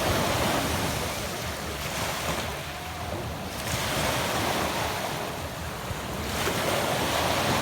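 Adriatic Sea waves breaking and washing up a pebble beach, swelling and fading about three times, roughly every three seconds.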